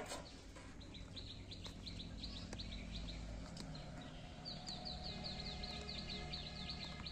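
A bird calling in two rapid runs of short, high, falling chirps, over a faint low steady hum.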